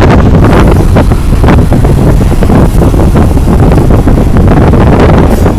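Wind buffeting the microphone at an open window of a moving vintage passenger train, over the steady low rumble of the carriage running on the track, with irregular short knocks.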